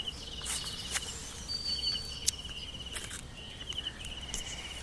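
An insect chirping in rapid pulsed trills, each up to about a second long and repeated several times, over scattered footsteps and rustling in vegetation.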